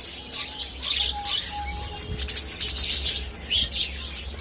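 Budgerigars chirping: many short, high chirps in quick succession, loudest in a rapid run a little past the middle.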